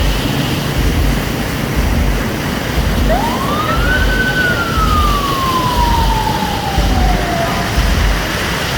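A single siren wail from an emergency vehicle, rising quickly about three seconds in and then falling slowly over about three seconds, over a steady rush of rain and road traffic.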